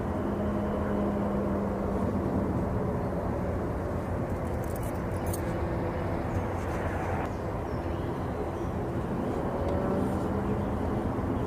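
Steady drone of an airliner at cruise heard from inside: an even rushing noise with a low hum underneath.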